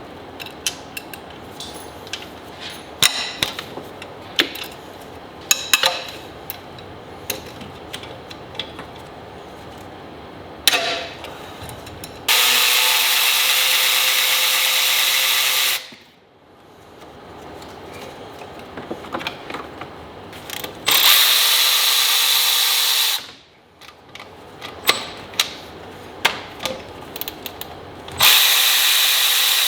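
Handheld power tool run in three bursts of about two to four seconds each, a steady motor whine, with scattered clicks and clatter of tools and parts between the bursts.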